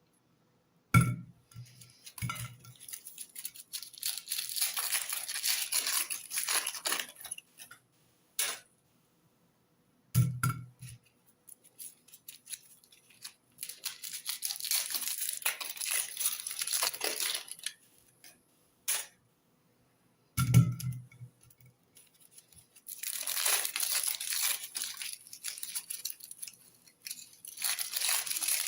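Crinkling, crackling noise in three rounds about ten seconds apart, each starting with a dull thump and followed by several seconds of dense crackle.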